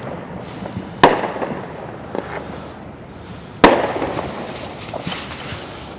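Aerial fireworks exploding. Two loud bangs, about a second in and again about two and a half seconds later, each trailing off in a rolling echo, with smaller pops between them.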